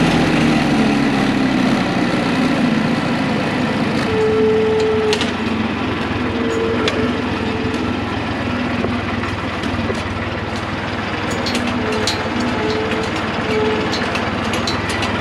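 Tractor engine running, its speed dropping over the first couple of seconds and then holding at a steady lower idle, with faint scattered clicks and short squeaks over it.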